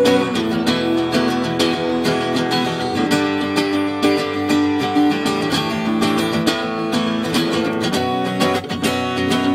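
Instrumental break of a song: acoustic guitar strumming steadily with other instruments, no singing.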